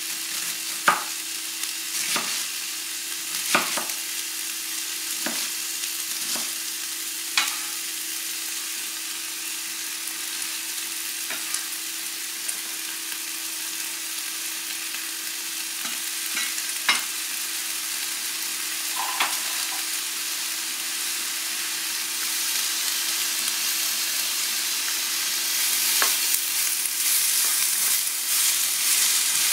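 Diced carrots and vegetables sizzling in an enameled cast-iron skillet, with several sharp knocks of a cleaver chopping on a wooden cutting board in the first eight seconds or so. Near the end the sizzle grows louder as cabbage is in the pan and stirred with a wooden spatula.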